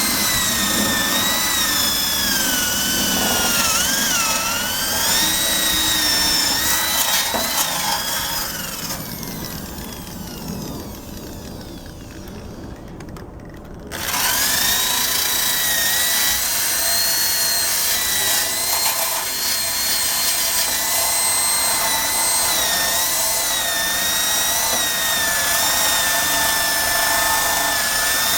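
Drill spinning a wire brush against the motorbike's metal undercarriage, its motor whine wavering in pitch under load. It winds down about eight or nine seconds in and starts up again some five seconds later, then runs steadily.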